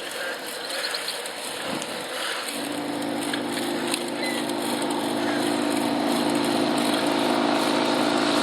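A motor vehicle engine hums at a steady pitch, starting about two and a half seconds in and growing gradually louder as it approaches. Under it runs a steady hiss of wind and riding noise.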